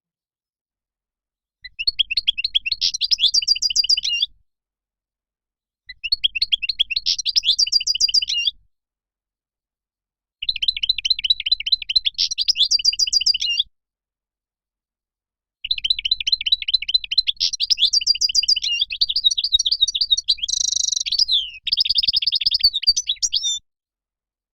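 European goldfinch singing: four phrases of rapid, high twittering with complete silence between them. The last phrase is much longer, about eight seconds, and ends in a few higher, buzzier notes.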